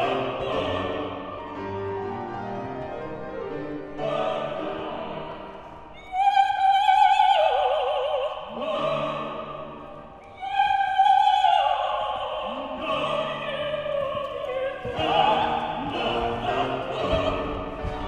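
Operatic soprano singing with instrumental accompaniment, with long held high notes sung with wide vibrato, two of them swelling loudly about six and ten seconds in.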